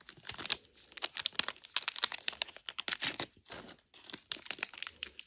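Thin plastic packaging crinkling and crackling in the hands as a Mini Brands miniature is unwrapped, a quick irregular run of crackles.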